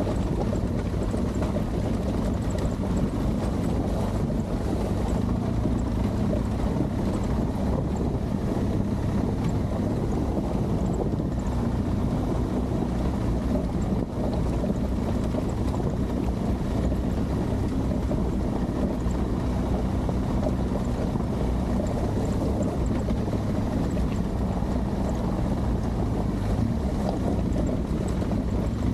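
Adventure motorcycle engine running steadily under way, with wind noise on the microphone.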